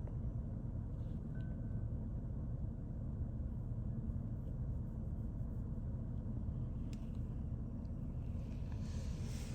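Car running with a steady low rumble, heard from inside the cabin.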